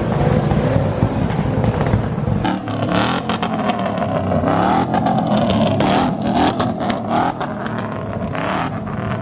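Vehicle engines running and revving at a truck meet, the pitch rising and falling several times from about three seconds in, with some clatter.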